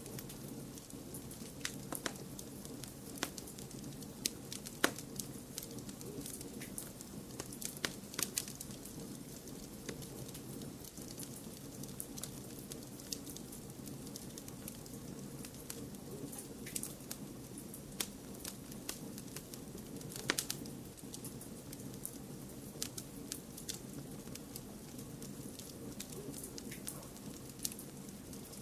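Wood fire crackling: irregular sharp pops and snaps over a steady low hiss of blended white noise, with a couple of louder pops, one about five seconds in and one about twenty seconds in.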